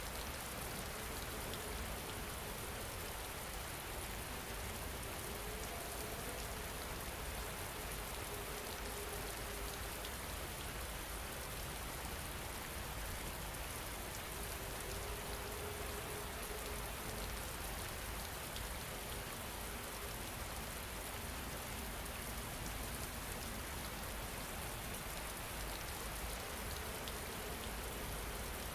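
Steady rain falling, an even hiss of rain on a surface that never changes, with a few faint long held tones showing through it now and then.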